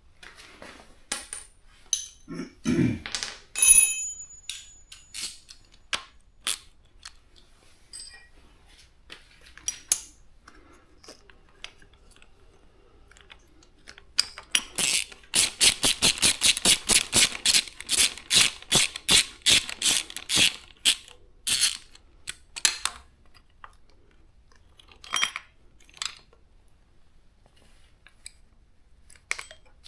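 Hand tools clicking and knocking on metal motorcycle parts during disassembly. About halfway through comes a run of rapid, even clicks, about five a second for some seven seconds.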